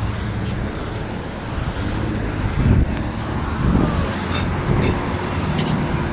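Road traffic: a steady low rumble of passing cars, swelling louder twice in the middle.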